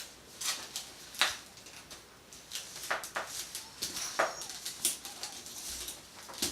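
Irregular clicks, taps and scratchy rustles of a baby handling and grabbing at a basket.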